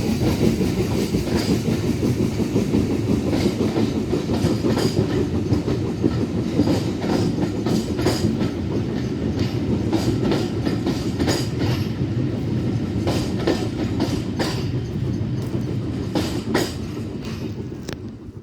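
Railway train rolling past, a steady low rumble with frequent sharp clicks of wheels running over rail joints, easing off near the end.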